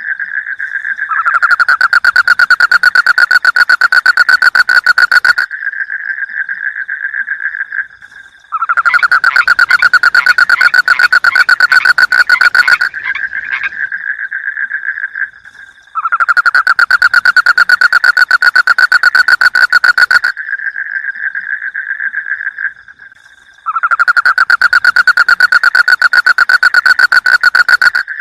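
Frogs calling: loud bouts of rapid, evenly pulsed croaking, four bouts of about four seconds each, with a quieter pulsed chorus going on between them.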